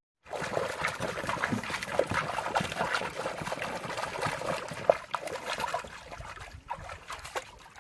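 Water splashing and sloshing irregularly in a dog's paddling pool as a dog moves through it. It starts abruptly and thins out about six seconds in.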